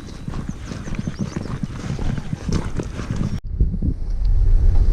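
Footsteps walking on a trail, a quick irregular run of steps, then an abrupt cut about three and a half seconds in to the low steady rumble of a truck driving.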